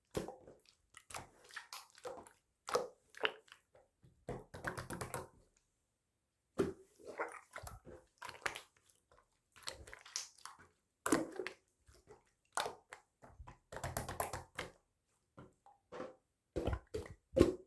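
Hands pressing, folding and poking a slime, making wet squishing and crackly clicking pops in irregular bursts, with a pause of about a second partway through.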